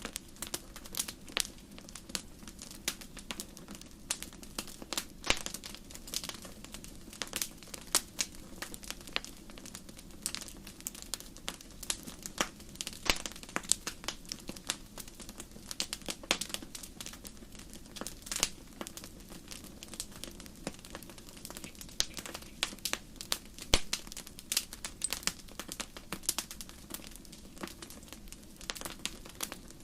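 Wood campfire crackling: irregular sharp pops and snaps, many a second and some louder than others, over a steady low rush of the burning fire.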